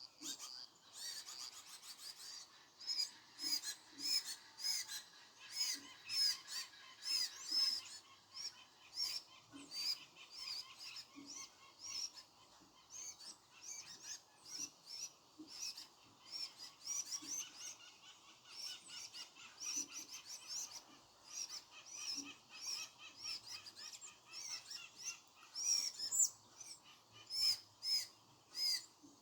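Birds chirping and twittering in a dense run of short, high chirps and trills, with a soft low note recurring every second or so.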